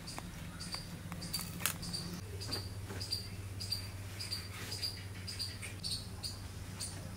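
A small bird chirping, short high chirps repeating irregularly about twice a second, over scattered sharp clicks and scrapes of a blade cutting fish and a low steady hum.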